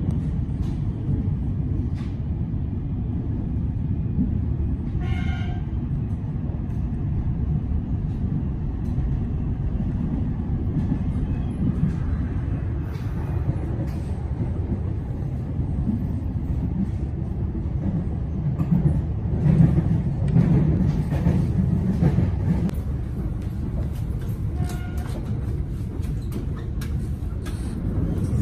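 Metro Trains Melbourne electric suburban train running, heard from inside the carriage: a steady low rumble of wheels on track with scattered clicks and knocks, swelling a little past the middle. A brief high tone sounds about five seconds in and again near the end.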